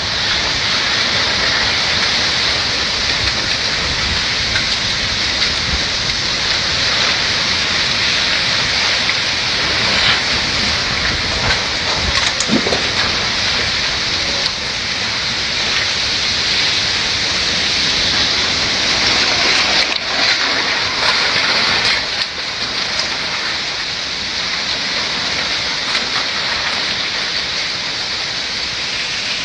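Heavy rain pouring down steadily in a storm, with gusts of wind rumbling underneath.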